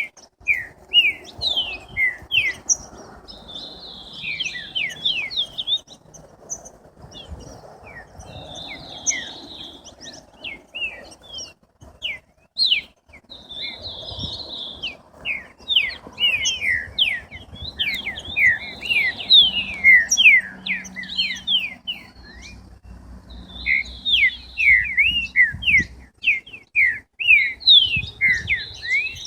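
Songbirds singing: phrases of quick, high, sweeping chirps, coming in bursts every few seconds at first and almost without pause later on.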